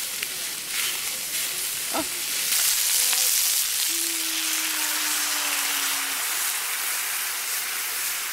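Beef and garlic stems sizzling as they stir-fry in a frying pan. The sizzle swells a few seconds in as sauce is poured into the hot pan.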